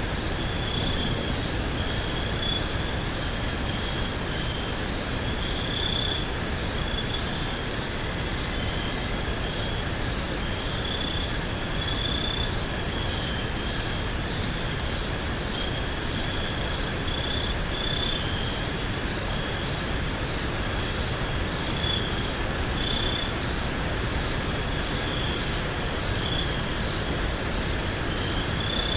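Insects trilling steadily in a forest, with short high chirps coming and going. A steady low rumble runs beneath.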